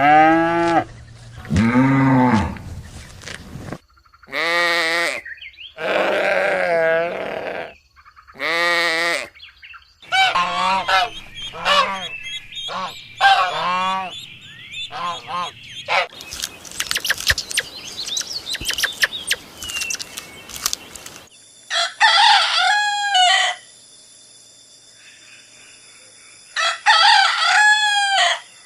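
Domestic fowl calling, chickens and geese, in a run of short clips that each cut off abruptly: loud repeated honking and crowing calls, with a stretch of rapid scratchy clucking noise midway.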